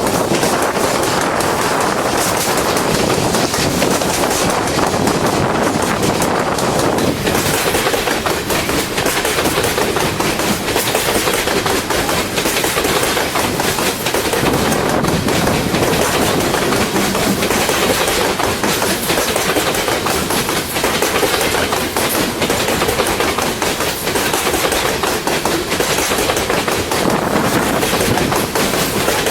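Loaded freight train cars rolling past, their wheels clicking and clacking steadily over the rail joints.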